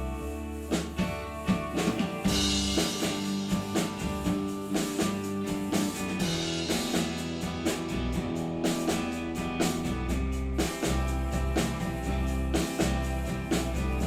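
Rock band playing instrumentally, with drum kit, guitar and bass over a steady beat, just before the vocals come in.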